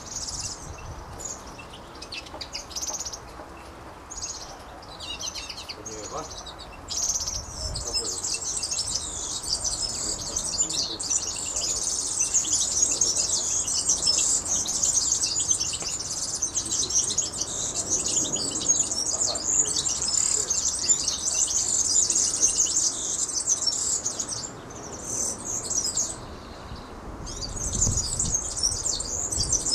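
Small birds chirping and twittering, high-pitched: separate calls at first, then a dense unbroken chatter of many birds from about seven seconds in, breaking back into short bursts near the end.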